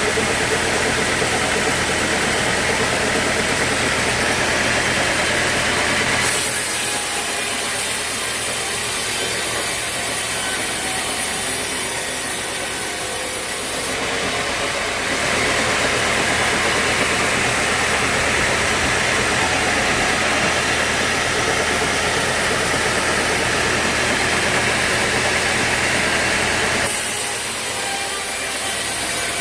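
Sawmill saw cutting through an old teak log over a steady machine drone. The high cutting hiss is strong for stretches, eases off about six seconds in, comes back about halfway through, and eases again near the end.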